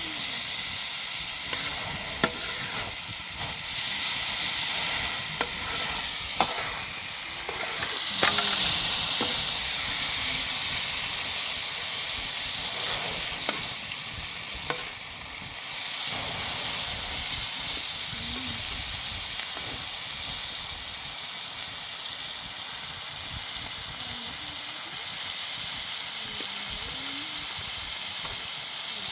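Steady high hiss with a few light clicks and knocks scattered through it, briefly louder about eight seconds in.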